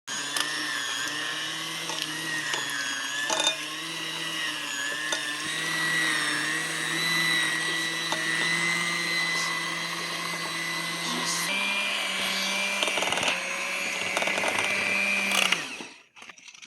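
Small electric kitchen appliance motor running steadily with a slightly wavering whine and a few clicks. It steps up in speed about two-thirds of the way through, then switches off shortly before the end.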